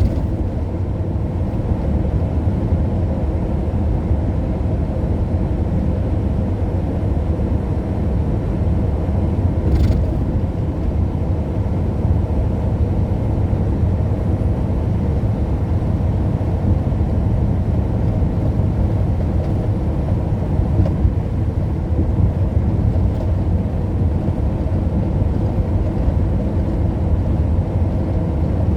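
Steady low rumble of a car driving along the road, with engine and road noise continuous throughout and one brief click about ten seconds in.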